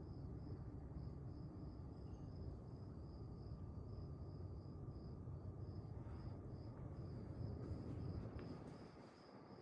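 Quorum Pinwheel ceiling fan running on high speed, a steady low rush of moving air. Behind it a cricket chirps evenly, about three chirps a second.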